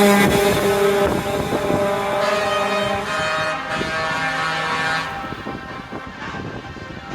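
Trucks driving past in a truck parade, engine and road noise slowly fading away. A truck air horn cuts off right at the start, and fainter held horn tones linger for the first few seconds.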